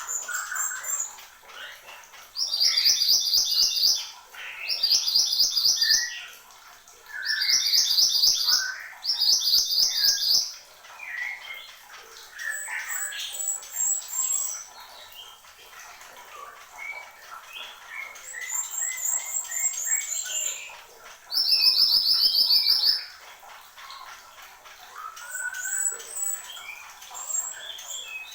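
Mantenan gunung songbird singing vigorously: loud bursts of a very fast, high trill about a second long, five times, with softer varied chirps and warbles between them.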